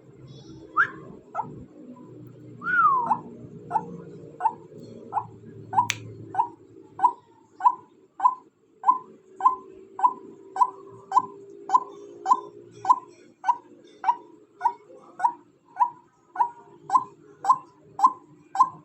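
Female white-breasted waterhen calling: a short call repeated evenly, about twice a second, after a couple of longer calls near the start that rise and fall in pitch.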